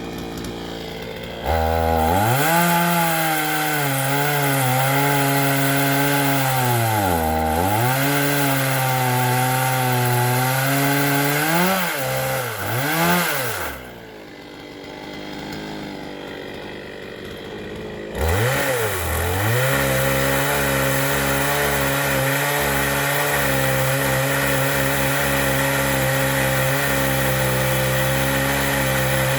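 Chainsaw cutting firewood logs: the engine comes in loud about a second and a half in and runs under load, its pitch dipping and recovering several times as the chain bites into the wood. It drops away for about four seconds midway, then picks up again and runs steadily through the rest.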